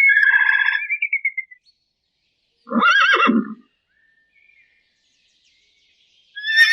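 An animal calling three times: a long quavering call that fades out in the first second and a half, a shorter call with a deeper part about three seconds in, and another near the end.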